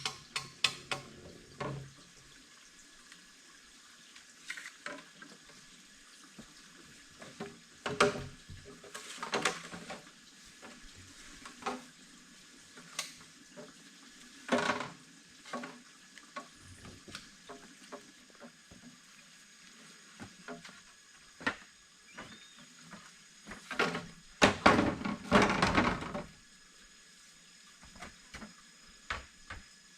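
Irregular knocks and clatters in short bursts, with some water sounds, as of pots, utensils and water being handled.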